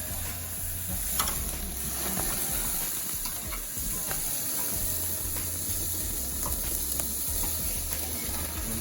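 Lamb leg pieces sizzling on a charcoal barbecue grill: a steady hiss with scattered sharp crackles and pops.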